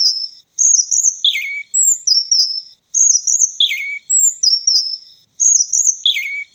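Robin singing: the same short, high, warbling phrase repeated three times, about every two and a half seconds, each ending in a quick drop to lower notes.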